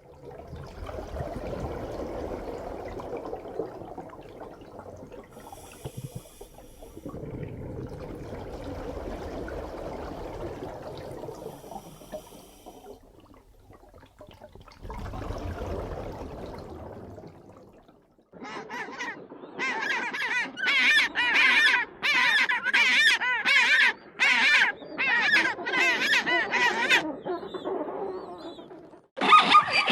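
Waterfowl calling in a dense, loud run of short pitched calls over the last third, after stretches of low rumbling noise with no calls.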